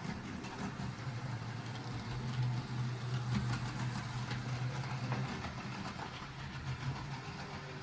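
Model train running along the layout's track: a steady motor hum with light irregular clicking from the wheels on the rails, loudest in the middle and easing about five seconds in.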